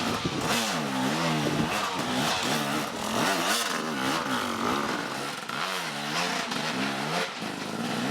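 An engine revving up and down over and over, its pitch rising and falling about once a second, as a vehicle rides hard off-road.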